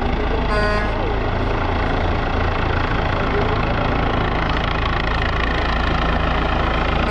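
Helicopter hovering low, its rotor and engine noise loud and steady. About half a second in there is a brief horn-like beep.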